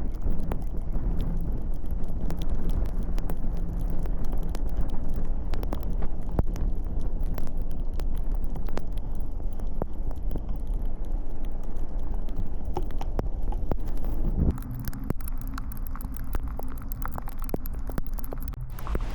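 Tyre and road noise from a Tesla Model S on a snowy, icy road. There is a steady low rumble with frequent sharp ticks, and the rumble drops suddenly about fourteen seconds in.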